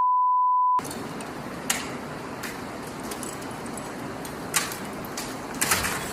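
A steady censor bleep tone that cuts off suddenly under a second in, followed by low background hiss with a few faint clicks and knocks.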